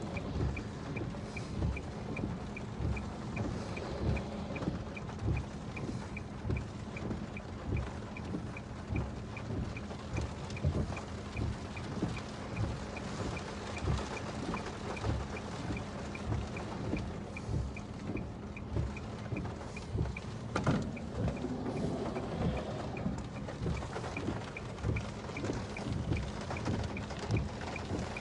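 Rain and storm wind heard during a severe thunderstorm, over a steady low hum, with irregular low thumps and a faint regular ticking about twice a second. A sharper crack comes about twenty seconds in.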